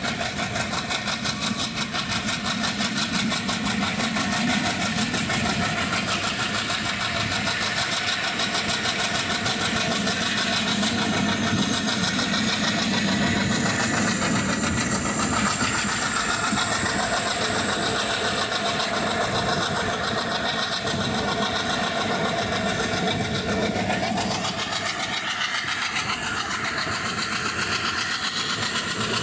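Indian Railways passenger train running along the track: a steady rumble of wheels on rails. Through the second half a thin high whine rises slowly in pitch.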